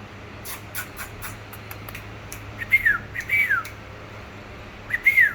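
Parrot whistling: three short falling whistles, two close together near the middle and one near the end, after a few faint clicks.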